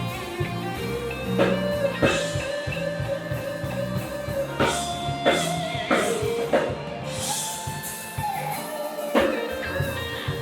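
Live soul band playing an instrumental passage without vocals: electric guitar and bass over a drum kit, with drum hits every second or so.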